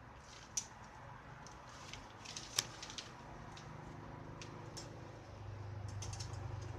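Scattered light clicks and taps of small hard objects being handled, with one sharper click about two and a half seconds in. A low steady hum comes in and grows louder near the end.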